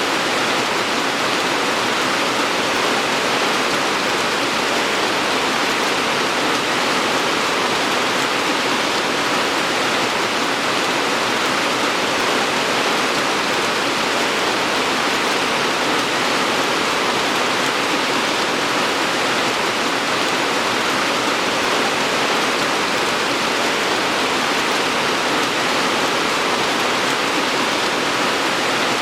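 Steady rainfall, a dense, even hiss with no single drops standing out and no change in strength.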